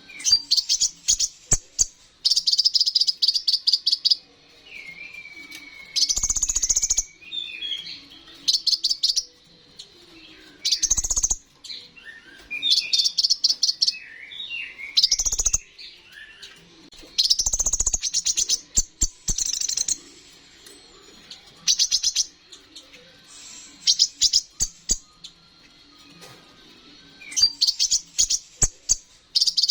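Kolibri ninja (konin) sunbird singing a busy song. Bursts of rapid, very high chattering trills come every few seconds, with slurred whistled phrases between them, including the mimicked notes ('isian') that keepers prize.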